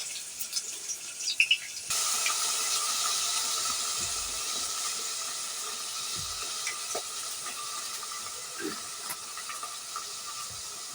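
Cooking pan on the fire hissing and sizzling: the hiss starts suddenly about two seconds in and slowly dies down, as when food or water goes into hot oil. A few light utensil clicks come before it.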